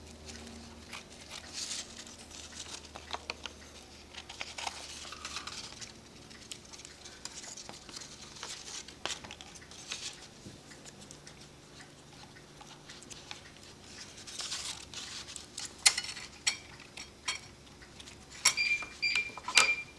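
Scissors snipping and paper rustling as leftover bellows paper is trimmed: soft, scattered clicks and crinkles. A brief high squeal near the end.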